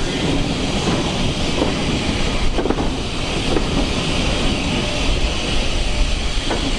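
Steam-hauled heritage train running along the track, a steady rumble and rattle of the coaches on the rails.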